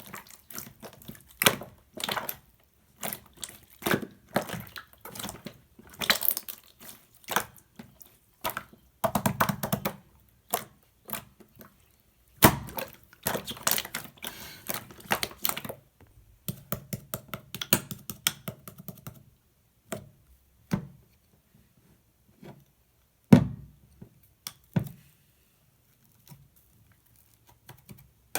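Slime handled by hand, making irregular sharp pops, clicks and crackles. They come thick and fast at first, then thin out to occasional single snaps, with one loud snap about two-thirds of the way through.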